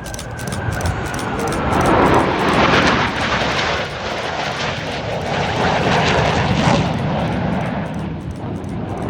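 A fixed-wing aircraft flying past, its engine noise swelling to a peak about two to three seconds in, rising again around six to seven seconds, then easing off.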